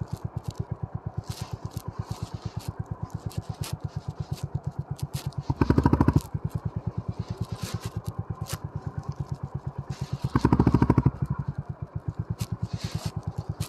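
Honda CB350 RS's air-cooled single-cylinder engine running at low revs with an even beat of firing pulses, getting louder twice in brief throttle openings about six and ten seconds in. Scattered sharp clicks and rattles sound over it.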